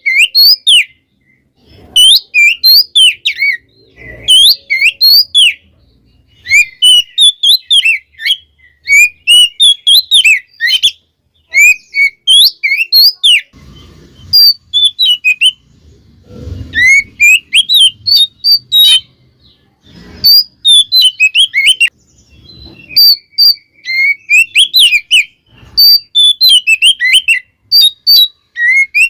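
Oriental magpie-robin (kacer) singing. Rapid phrases of varied whistles, chirps and slurred notes follow one another with brief pauses between them.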